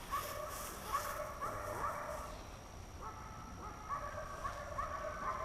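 A Brittany whining while it holds a point, a high whine in short repeated notes in two spells, the sign of a bird dog straining with excitement on the scent of a bird.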